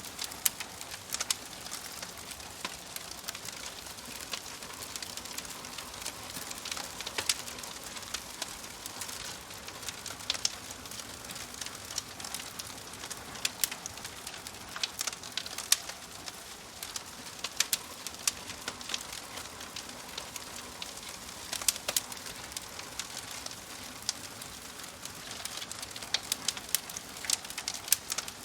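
Wood fire crackling: a steady hiss with irregular sharp pops and snaps from burning logs.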